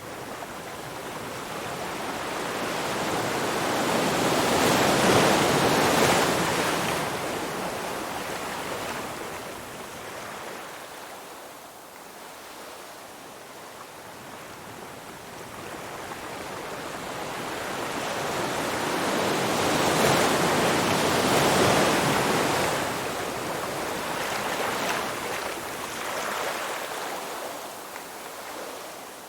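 Ocean surf: two long waves break and wash in, each building over several seconds to a peak and then ebbing away, about fifteen seconds apart.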